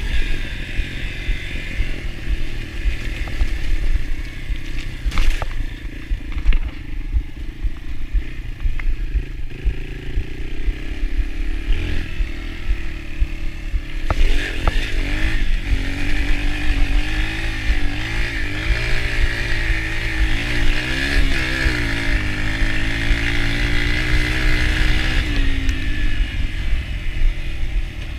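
Yamaha TT-R125 dirt bike's single-cylinder four-stroke engine running while being ridden, its pitch rising and falling repeatedly with the throttle in the second half, with a few knocks along the way.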